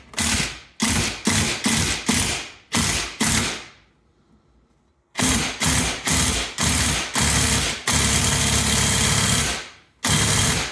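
Impact wrench hammering in many short bursts on the nut of a 1985 Briggs & Stratton horizontal-shaft engine, with a pause about four seconds in and one longer burst of nearly two seconds near the end; the nut does not come loose.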